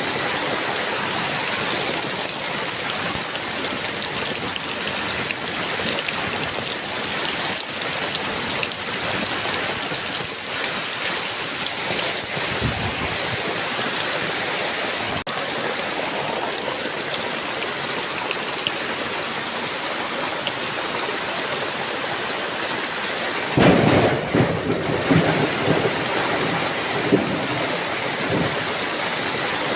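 Heavy rain falling steadily. Thunder cracks loudly a little past twenty seconds in and rumbles on for a few seconds, after a fainter distant rumble about halfway through.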